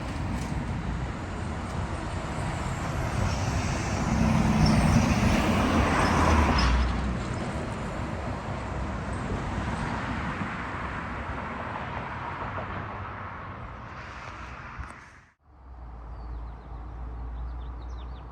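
A road vehicle passing close by, its engine and tyre noise swelling to a peak about five seconds in and then fading away. Near the end the sound cuts out abruptly and comes back as a low steady traffic rumble.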